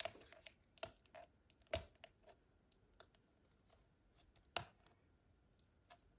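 Toy packaging being opened and handled by hand: a few separate sharp crackles and clicks with short quiet gaps between them.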